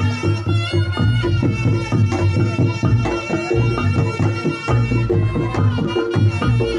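Reog Ponorogo music: a slompret (reed shawm) plays a sustained melody over kendang drumming and struck percussion, with a heavy pulsing bass line.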